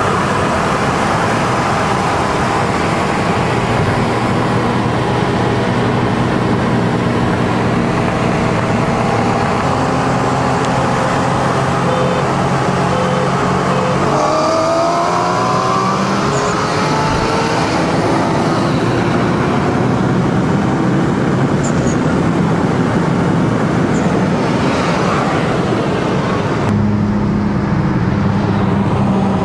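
Engines of a supercharged Corvette Z06 and a turbocharged BMW E46 M3 running hard. Their pitches climb together about halfway through as the cars accelerate. Near the end the sound changes to a steadier, lower engine drone.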